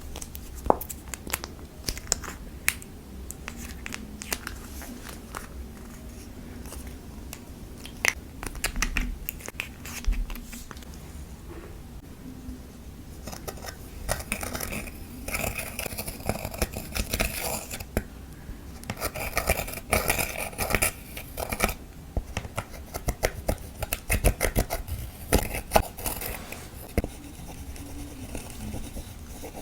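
Clear slime being worked and squished by hand as lipstick is mixed in: many sharp little clicks and pops, with stretches of crackling.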